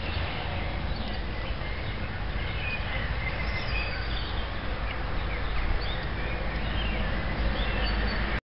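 Small birds chirping in short, scattered calls over a steady low rumble of outdoor background noise; the rumble is the loudest part.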